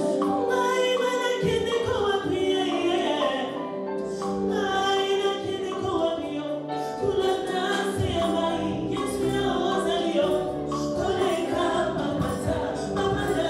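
A group of voices singing a gospel song together over instrumental backing, with a low beat coming in about a second and a half in.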